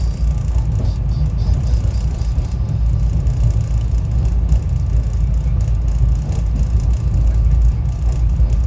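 SEPTA Regional Rail commuter train running at speed, a steady low rumble heard from inside the passenger car.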